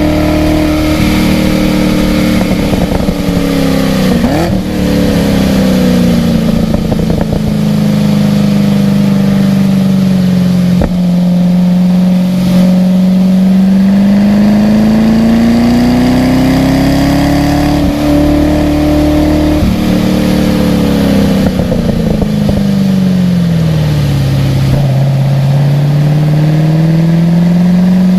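Car engine driven hard around a race track, its pitch slowly falling and climbing as it slows for corners and accelerates out of them, lowest about 25 seconds in, with a few brief breaks in the sound.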